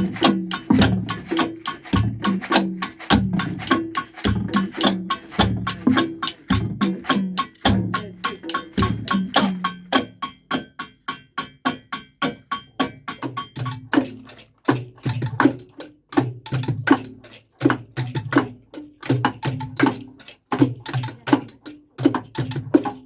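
A group playing a rhythm on trash-band percussion made from recycled objects: fast, even taps over deeper drum-like thuds. About two-thirds of the way through, the low hits shift to a lower pitch.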